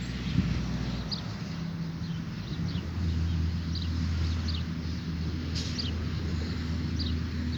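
Birds calling in short, high chirps that drop in pitch, about one a second, over a steady low hum.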